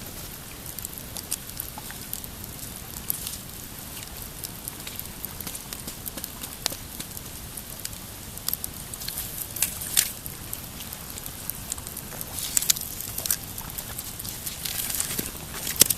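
Pine-wood campfire crackling, with scattered sharp pops that come thicker and louder in the last few seconds.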